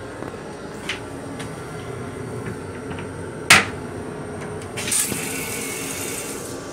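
Steady running rumble of a moving Metro-North M7 electric railcar, heard from inside its restroom. A few light ticks come early, then a single sharp clack about halfway through, the loudest sound. A hissing rustle follows for about two seconds near the end.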